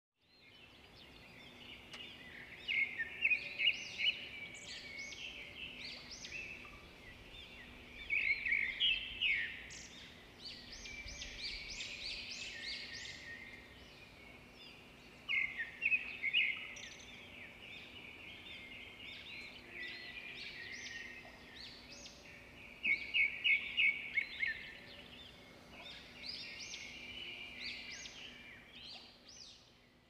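Several songbirds singing and chirping over one another. Louder bursts of quick repeated notes come about three seconds in, about eight and a half seconds in, about fifteen seconds in and about twenty-three seconds in.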